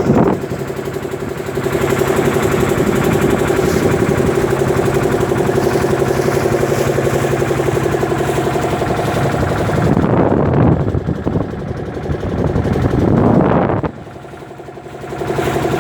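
An engine running steadily at an even pitch. Near the end it drops quieter for about a second, then picks back up.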